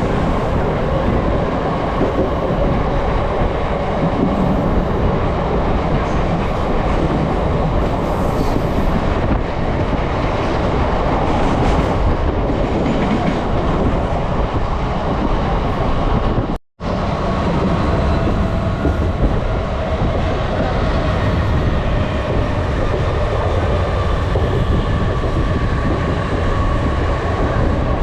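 Mumbai suburban electric local train running at speed, heard from inside the carriage: a steady, loud rumble of the train on the rails. The sound cuts out completely for an instant about two-thirds of the way through.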